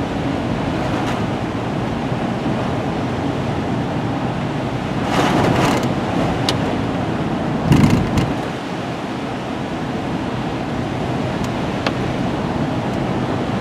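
Car tyres hissing on a wet, slushy road, with louder whooshes of water as the car drives through puddles, once about five seconds in and again, loudest, near eight seconds.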